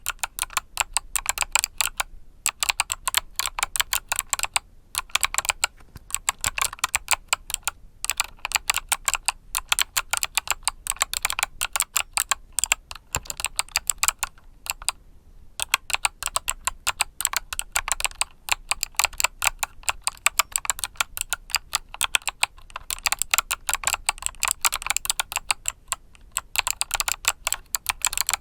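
Steady typing on a mechanical keyboard with Kailh Box switches: quick runs of sharp keystroke clicks, several a second, broken by brief pauses every few seconds.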